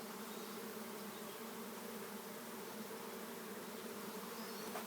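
A swarm of European honeybees buzzing around the mic, a steady, even hum of many wingbeats. The swarm is moving into a box that holds its queen.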